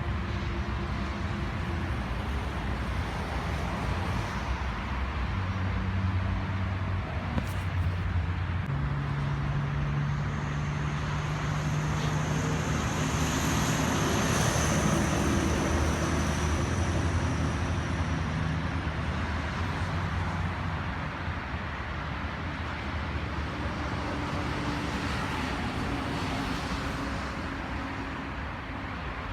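Steady road-traffic noise from passing vehicles, with a faint high whine through the middle.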